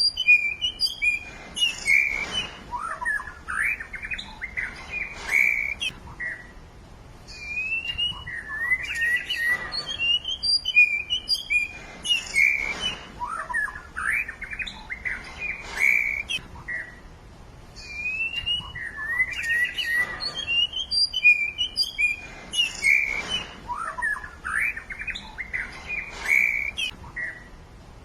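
Songbird chirping and twittering in quick, varied phrases of rising and falling notes, with short pauses between bouts; the same run of phrases comes round again about every ten seconds.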